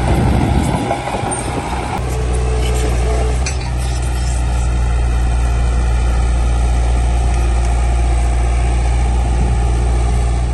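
Heavy diesel engine of earthmoving machinery running steadily at a low, even speed, with a short rougher stretch in the first couple of seconds.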